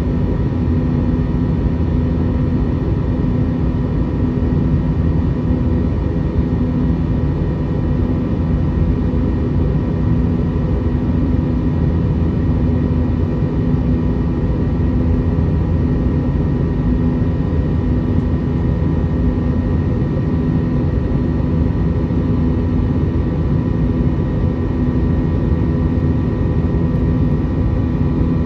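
Steady cabin noise of an Airbus A321 airliner in flight: a low roar of engines and airflow with a few steady humming tones, unchanging throughout.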